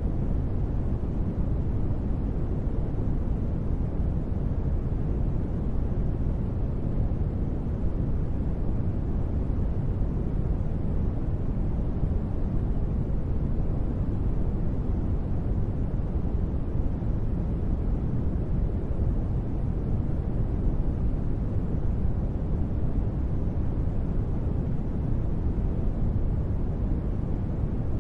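Steady, unchanging noise track of the kind used as white noise for sleep, weighted to the low end: a deep, even hush with little treble.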